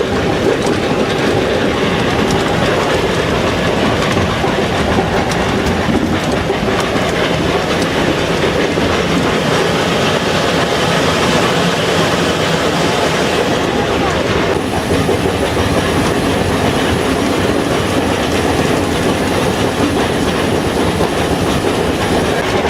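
Mount Washington Cog Railway train running steadily, heard from the coach: a continuous loud rumble and clatter of the car and its running gear on the rack track.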